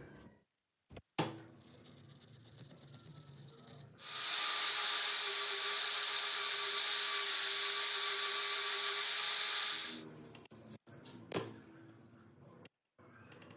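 A handheld power tool abrading the metal of an old refrigerator compressor: a steady, loud abrasive hiss with a faint motor whine, starting about four seconds in and stopping about six seconds later. Quieter hand scraping and a couple of sharp knocks come before and after it.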